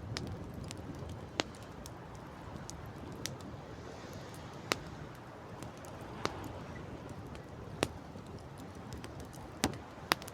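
Wood campfire crackling, with sharp, irregular pops and snaps, a few of them louder near the end, over a steady rush of wind and sea.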